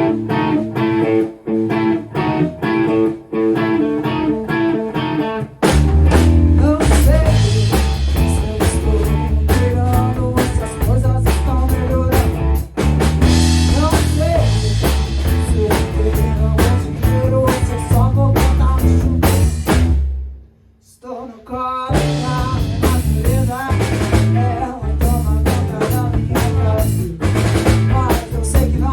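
Rock band playing a song. Guitar opens alone for about five seconds, then drums and bass come in with the full band. The band drops out almost to nothing for about a second around twenty seconds in, then starts up again.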